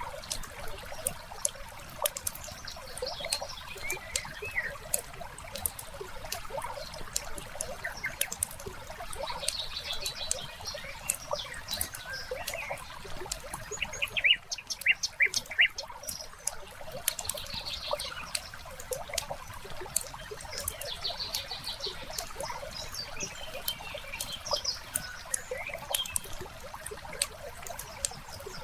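Layered ambience of a wood fire crackling with frequent sharp pops, over trickling water and birds chirping, with a short run of louder calls about halfway through.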